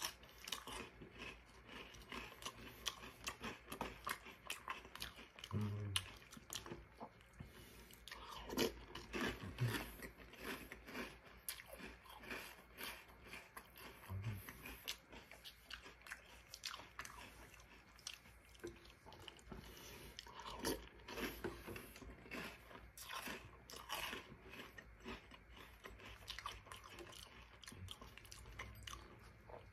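Close-up chewing and crunching of Reese's Puffs cereal in milk: a continuous, irregular run of crisp crunches.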